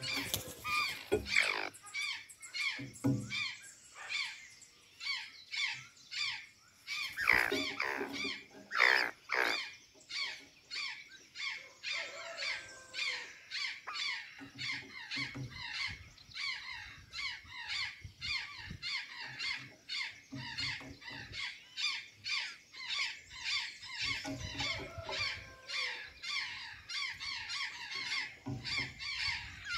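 Azure jays calling: a steady run of quick, high chirps several times a second, with a few louder harsh calls about seven to nine seconds in.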